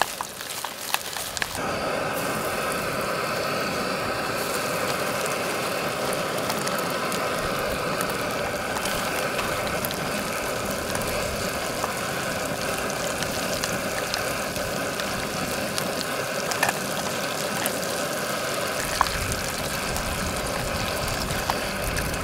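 Pieces of King George whiting frying in hot oil in a small pot on a gas canister stove. A steady sizzle starts abruptly about a second and a half in, as the fish goes into the oil, and holds even, with a few light ticks.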